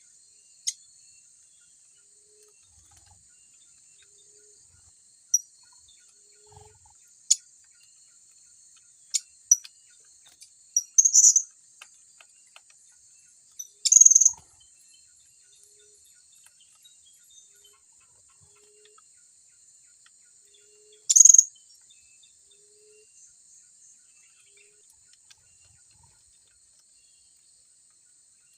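Short, shrill, high-pitched calls of blue-crowned hanging parrots (serindit), about ten of them in scattered ones and pairs, loudest a little before halfway and again about three quarters through, over a steady high insect drone.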